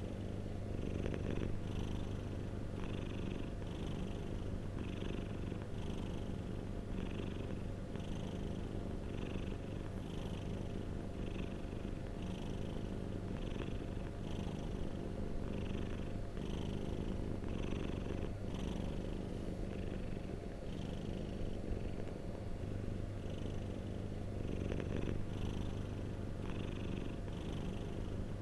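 Domestic cat purring: a steady low rumble with a soft, regular pulse a little faster than once a second.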